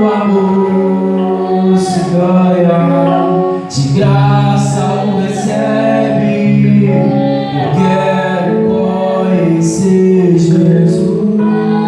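A Portuguese-language gospel song: a voice singing held, melodic lines over instrumental accompaniment.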